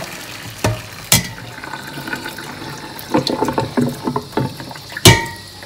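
Water running from a kitchen tap onto boiled rice in a stainless steel colander, a steady splashing hiss, with a few clanks of the steel pot against the colander and sink. The loudest clank, with a short metallic ring, comes near the end.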